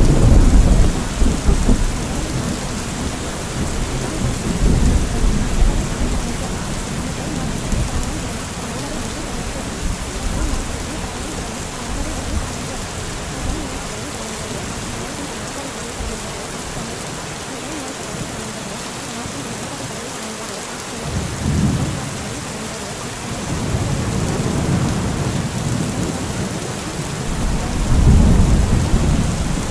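Steady rain with rolls of thunder: a loud rumble right at the start, lighter ones around five seconds and twenty-one seconds, and a long rumble building near the end.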